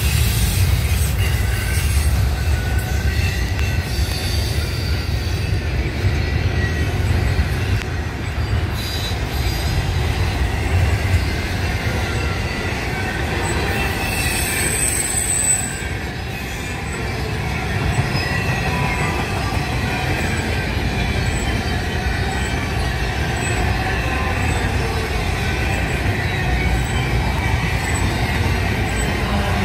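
Union Pacific double-stack intermodal train rolling past close by: a steady rumble of steel wheels on the rails, with thin wheel squeals coming and going and one brief high squeal about halfway through.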